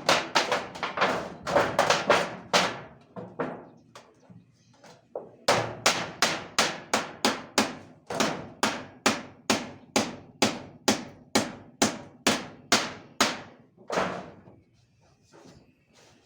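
Hammer blows struck in steady runs of about three a second, a short run at first, then a pause of a few seconds, then a longer run ending in a single last blow.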